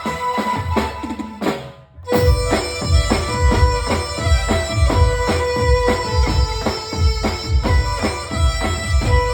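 Live garba dance music without singing: a fast, even drum beat under a sustained reedy keyboard-style melody, played through a PA system. The music drops out briefly about one and a half seconds in and comes back in at full level half a second later.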